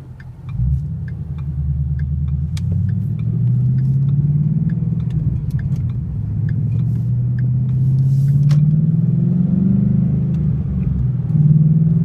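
2012 Mustang GT's 5.0 V8 through an MBRP Race Series cat-back exhaust, heard from inside the cabin as a deep drone while accelerating, its pitch climbing over several seconds. The pitch dips briefly near the end, then picks up again.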